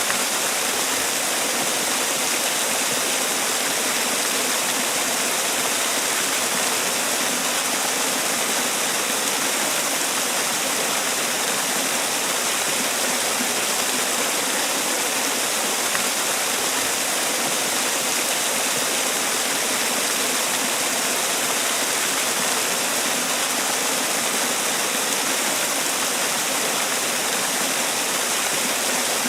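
Man-made waterfall: water falling and splashing in a steady, unbroken rush.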